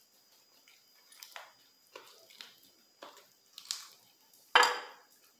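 Close-up chewing and wet mouth sounds from eating: a few short, irregular smacks and clicks, with one louder one about four and a half seconds in.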